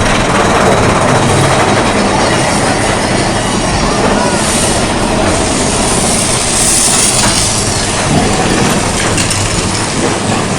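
Mine-train roller coaster cars running along the track, with a steady rattle and rumble of wheels on rail.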